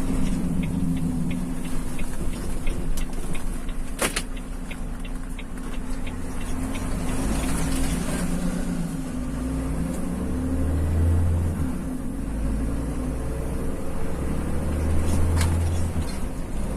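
Steady engine and road noise heard from inside a vehicle driving in heavy rain, with a low hum, a hiss of rain and tyres on the wet road, and a deeper rumble that swells twice in the second half. A sharp knock about four seconds in, and light regular ticking early on.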